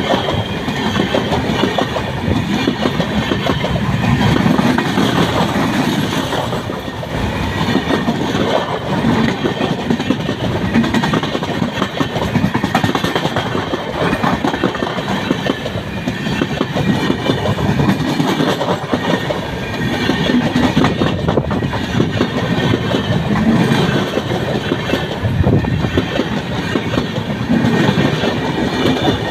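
Express passenger train running past close by at speed: a steady loud rumble with the clickety-clack of coach wheels over the rail joints.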